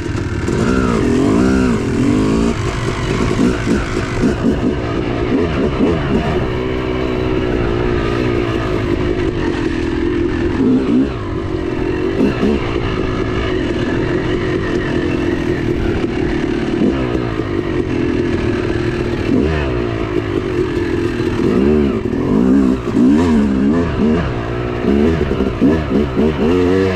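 Yamaha YZ250 two-stroke dirt bike engine being ridden hard, its pitch rising and falling over and over with throttle and gear changes.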